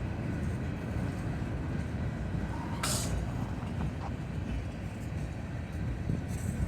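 Norfolk Southern mixed freight train rolling past: a steady low rumble of the cars on the rails, with one brief sharp high noise about three seconds in.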